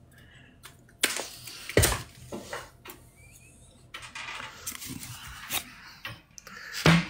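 Scattered clicks and knocks with some rustling, from handling kindling and firewood in a fireplace that is slow to catch.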